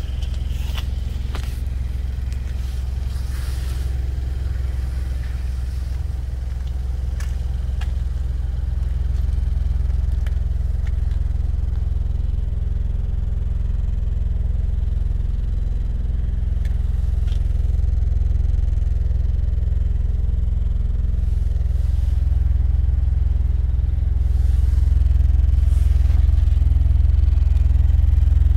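A Mitsubishi Pajero Mini Turbo's small turbocharged four-cylinder engine idling steadily as a low hum, with a few light clicks and scrapes from handling nearby.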